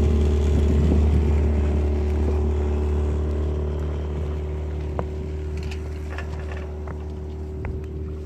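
Outboard motor running at a steady speed, pushing the yacht along: a constant low engine hum that gradually gets quieter, with a few faint knocks about five seconds in.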